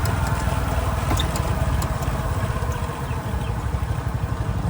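Motorcycle engine running steadily while riding, with a constant low rumble.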